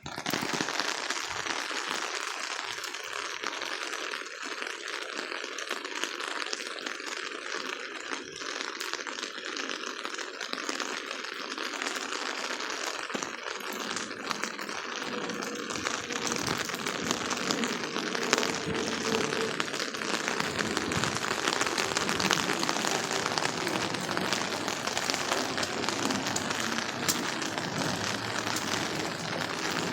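Heavy rain pouring down, a dense, steady patter of drops hitting surfaces. About halfway through a deeper rushing sound joins in underneath.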